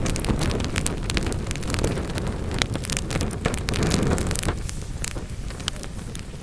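Wood fire burning in a fireplace: many sharp crackles and pops over a low rumble of flames, the rumble easing a little after about four and a half seconds.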